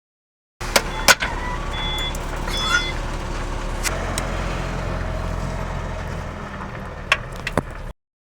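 A vehicle engine running steadily with a low hum, with several sharp metallic clicks and knocks about a second in and again near the end, and a few short high squeaks early on.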